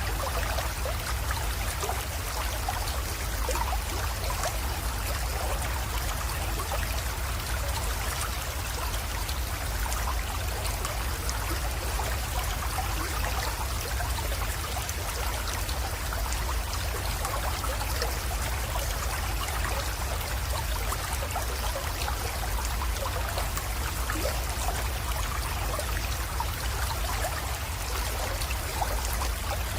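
Small creek water flowing and trickling steadily into a pond, with many tiny splashes and a low rumble underneath.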